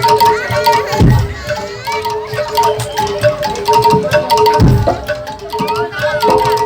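Live Javanese gamelan for jaranan dance: metal-keyed instruments repeat a short ringing pattern of notes, with deep drum strokes about a second in and again about four and a half seconds in.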